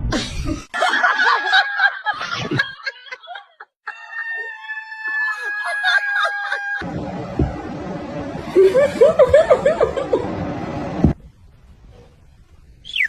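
Comedy sound effects: canned snickering and laughter, broken in the middle by a held steady tone for about three seconds, then more cackling laughter that cuts off abruptly.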